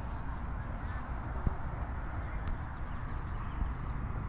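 Steady outdoor background noise with a low rumble, and a short high-pitched note repeating about once a second; a single click about a second and a half in.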